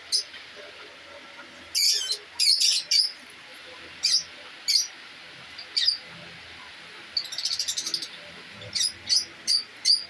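Small cage birds in an aviary chirping: short, sharp high-pitched chirps at irregular intervals, with quick runs of several chirps in a row.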